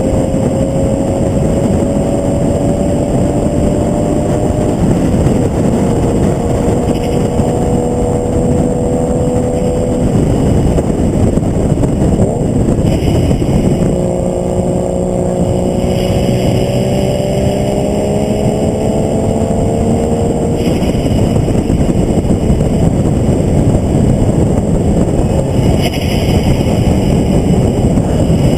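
Vehicle engine at track speed, its pitch climbing in long pulls and falling back between them, over steady wind and road rush. The engine fades into the rushing noise near the end.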